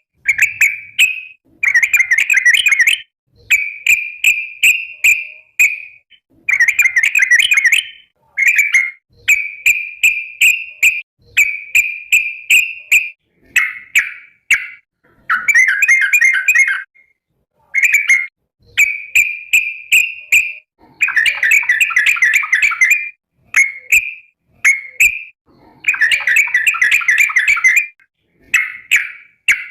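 Yellow-vented bulbul (trucukan) singing loud, bubbling, chattering phrases, each a second or two long, repeated over and over with short pauses between them.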